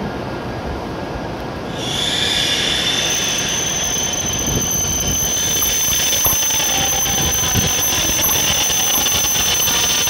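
E7-series Shinkansen train running slowly into the platform with a low rumble from its running gear. About two seconds in, a steady high-pitched squeal sets in as it brakes toward a stop.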